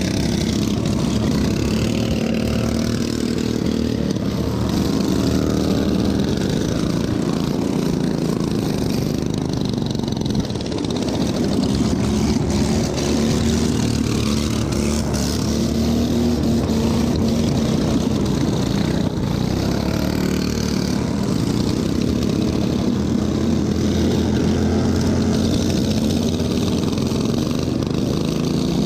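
Racing lawn tractor's small engine running hard, its pitch wavering as the throttle and load change, with brief dips about ten seconds in and again near nineteen seconds.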